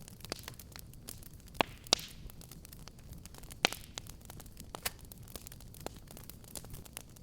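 Wood fire crackling in a fireplace: a steady run of small snaps over a low rumble of flames, with a few sharper pops, two close together about a second and a half in and another near four seconds.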